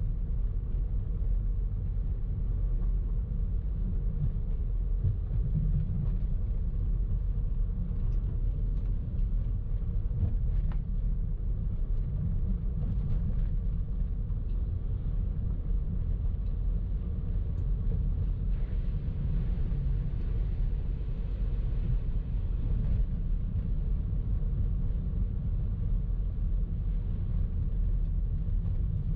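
Car driving in traffic: a steady low rumble of engine and road noise that does not change much.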